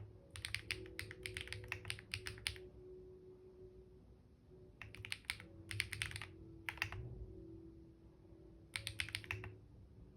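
Typing on a computer keyboard: three quick runs of keystrokes separated by short pauses.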